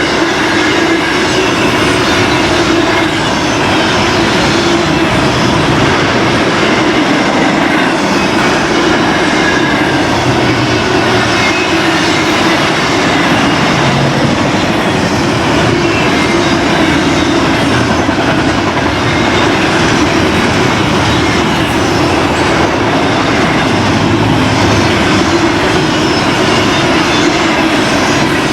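Freight train cars rolling steadily past at close range, the wheels clattering over the rail joints; the train is a BNSF intermodal train.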